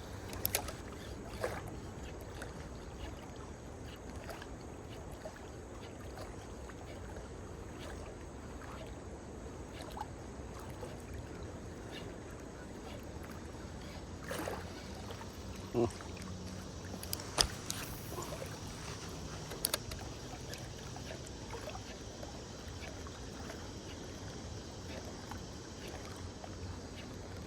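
Steady noise of moving river water and wind, with scattered sharp clicks and knocks, a few louder ones in the middle.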